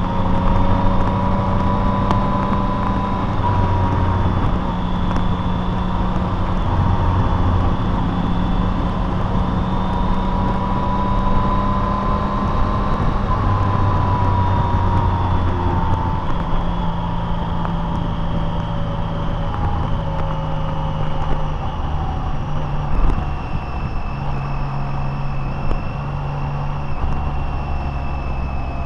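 Car driving along the road: engine and tyre noise with a steady drone that drifts slowly up and down in pitch, and a single short bump about three-quarters of the way through.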